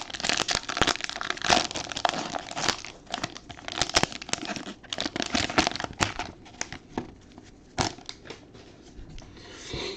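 Plastic packaging of sealed trading-card packs crinkling and tearing as it is opened by hand: a dense, irregular run of crackles that stops near the end.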